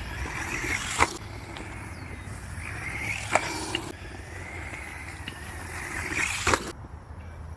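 Brushless-motored HBX 903a 1:12 RC trucks driving over rough ground, a whine rising and falling in pitch over the rattle of tyres and drivetrain. Sharp knocks come about a second in, about three seconds in and again shortly before the noise cuts off near the end.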